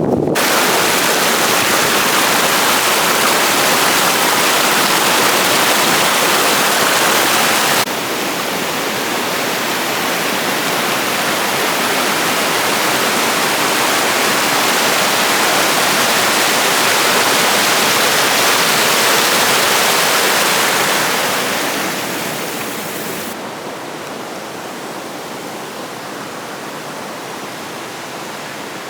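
Steady rush of fast-flowing river water, changing abruptly about a third of the way in and growing quieter near the end.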